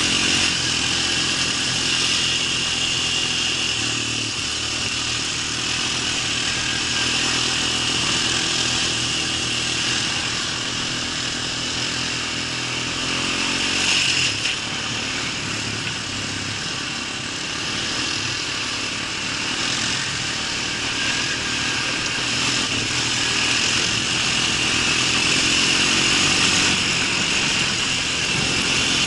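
An engine running steadily for the whole stretch, its low pitch wavering slightly, under a constant high-pitched hiss.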